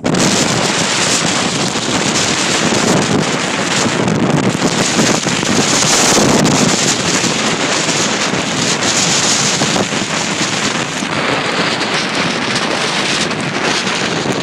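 Snowstorm wind of about 30 mph blowing hard across the microphone: a loud, steady rush of wind noise.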